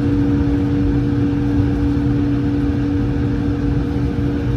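Cabin noise of an Airbus A220-100 with its Pratt & Whitney PW1500G geared turbofans running: a steady low rumble with two even hum tones above it.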